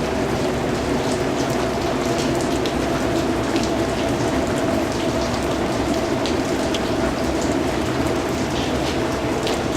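Steady rain falling, an even hiss with scattered sharp drip ticks of individual drops landing.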